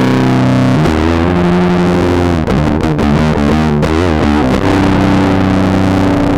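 Guitar played through a circuit-bent Whisper 2000 hearing-aid amplifier used as a distortion pedal, giving heavily distorted, sustained notes. The note changes about a second in, the pitch wobbles and shifts quickly in the middle, and a long held note rings out near the end.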